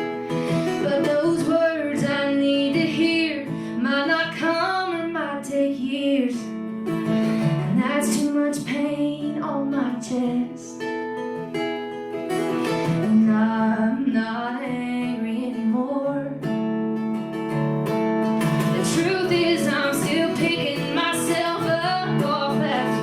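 A woman singing over strummed acoustic guitar.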